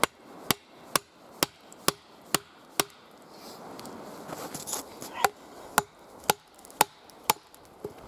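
Quick, even blows of a hand tool striking wood, about two a second: seven strikes, a pause of about two seconds, then five more.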